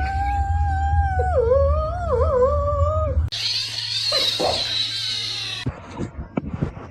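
A cat gives one long, drawn-out meow that rises, holds and then wavers in pitch, answering a request to say good morning. It is followed by about two seconds of steady hissing noise and a few light clicks near the end.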